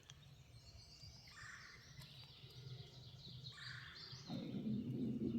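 Small birds chirping and singing in woodland. About four seconds in, a close rustling with small clicks starts and grows louder.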